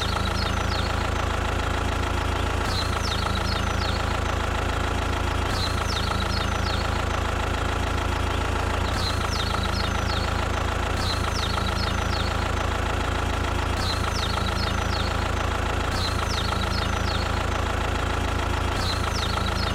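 Tractor engine running at a steady idle with an even, knocking drone, broken by short high chirps every second or two.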